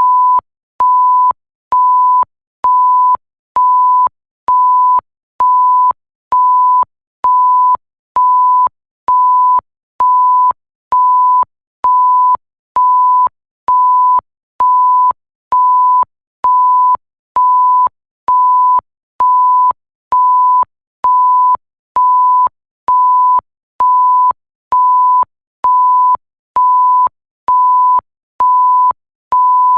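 Bleep sound effect: a single steady pure tone switched on and off evenly, about one beep a second, each beep lasting about half a second.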